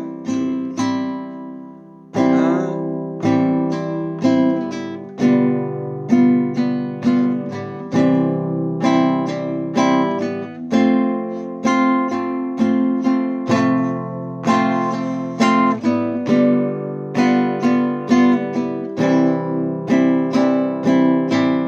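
Acoustic guitar strummed in a steady rhythmic strumming pattern: one strum on the first beat, followed by quicker strokes, with the chord changing from bar to bar.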